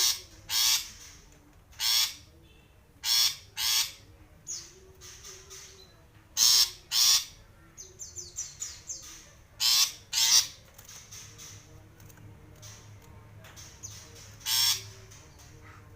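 Long-tailed shrike (cendet) giving about ten loud, harsh calls, many in quick pairs, with softer rapid chattering calls in between.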